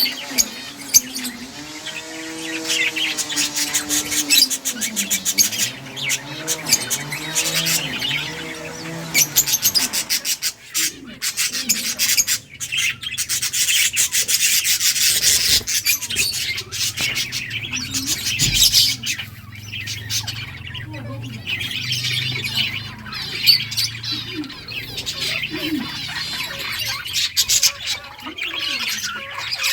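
Several budgerigars chirping and chattering in rapid, overlapping bursts throughout. A lower, wavering sound runs underneath for roughly the first ten seconds.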